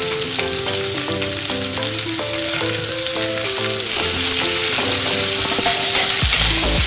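Sliced onions sizzling in hot oil in a metal wok with chopped garlic, ginger and green chilli, stirred with a metal spatula that scrapes and taps against the pan. The sizzle grows louder about four seconds in, over a soft background tune.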